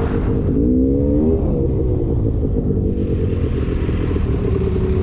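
Polaris Scrambler 400 two-stroke ATV engine running on the trail, revving up and dropping back about a second in, then holding a steady note.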